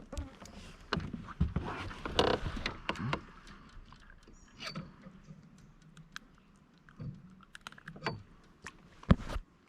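Irregular knocks, clicks and rattles of gear being handled on a kayak, loudest around two seconds in and again near the end.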